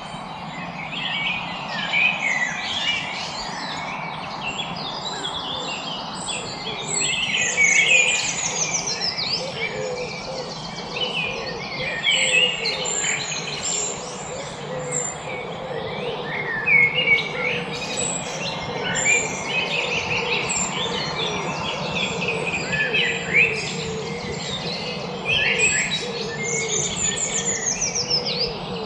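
Many birds chirping and singing at once, a dense chorus of short overlapping chirps and quick falling trills over a steady background hiss.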